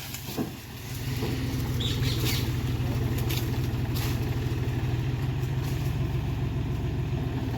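John Deere tractor's diesel engine running with a steady pulsing beat, growing louder about a second in and then holding steady as the engine works.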